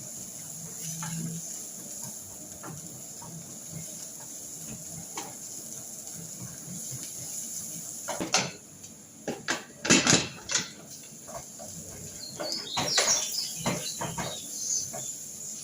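Kitchen clatter of pots, pans and utensils: a run of sharp knocks and clinks about eight seconds in, and another about twelve seconds in, over a steady background.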